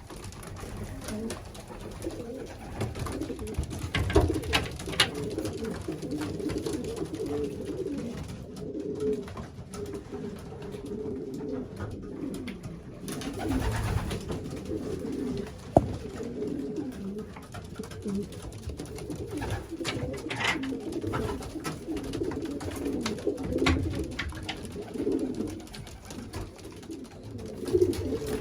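Many racing pigeons cooing together in a loft, a continuous overlapping murmur of low coos, with scattered clicks and knocks of birds moving about, one sharp click about 16 seconds in.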